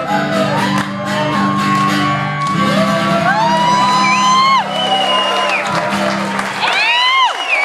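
A live rock band holds its final chord on electric guitars, and the audience whoops and shouts over it. The band cuts off about six and a half seconds in while the whoops carry on.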